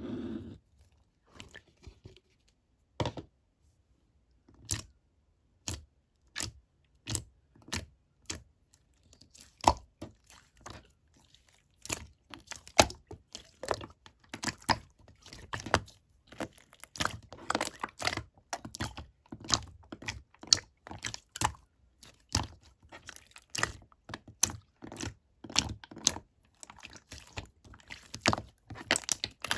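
Clear slime being squished and worked by hand, giving crisp clicking and popping sounds: a few separate pops at first, then a dense, fast run of them from about ten seconds in.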